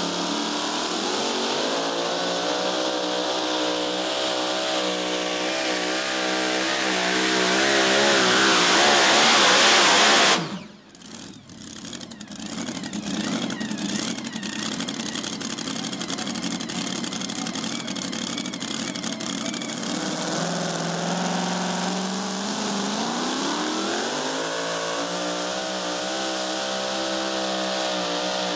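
Supercharged Hemi V8 of a super modified two-wheel-drive pulling truck running hard, getting louder and higher for about ten seconds, then cut off abruptly. Afterwards engines run lower and steadier, with one rev up and back down about three-quarters of the way through.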